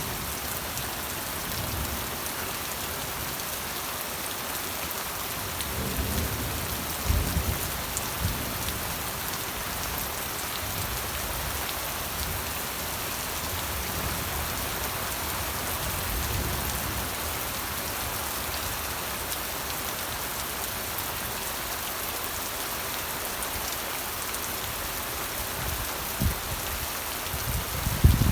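Steady rain falling with an even hiss, and low rumbles of thunder: the strongest about six to eight seconds in, a softer one midway, and more near the end.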